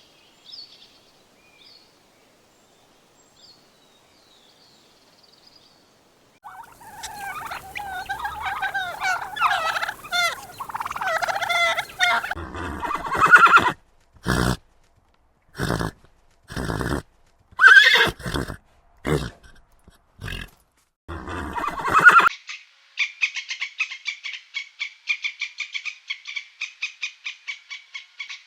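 Horse neighing and whinnying: a long wavering whinny, then a series of separate loud neighs and snorts. Near the end a different animal call takes over, a fast even pulsing trill at one steady pitch.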